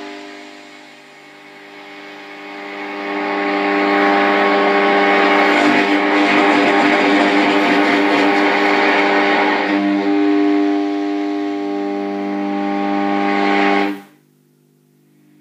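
Drone noise from an old tube radio: several steady tones held together, with a rushing noise swelling up over the middle and easing off. The whole sound cuts off suddenly near the end, then starts to fade back in.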